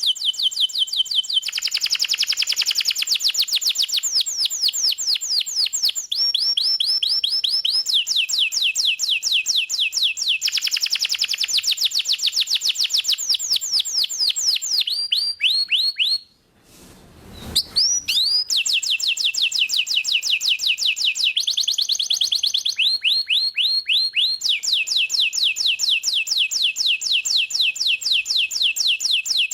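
Domestic canary in full song: long runs of very rapid repeated notes, shifting to a new phrase every second or two, with a short break about halfway through.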